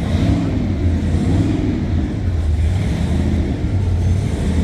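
Car engines running at low revs, a steady low note whose pitch rises and falls slightly every second or so.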